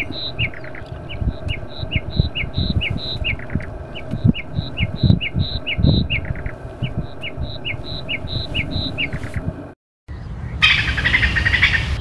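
Spur-winged lapwing calling: short, sharp, repeated notes, about three a second. The calling stops near ten seconds and, after a brief silence, a harsh rasping sound takes over near the end.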